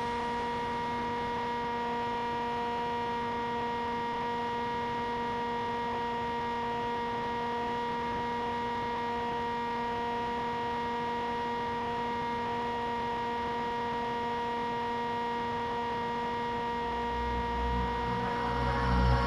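Steady electrical hum with a few fixed tones that do not change in pitch or level.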